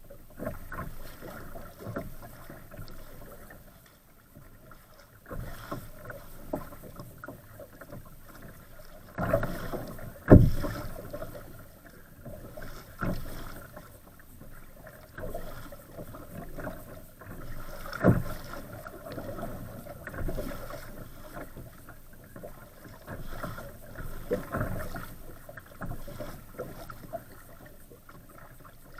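Choppy water splashing and slapping around an Old Town Castine 140 kayak as it is paddled through wind-driven waves, in irregular surges. Two sharp knocks stand out, the louder about ten seconds in and another around eighteen seconds.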